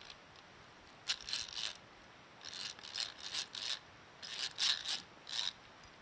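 Short, hard scraping strokes in three quick bursts of several strokes each.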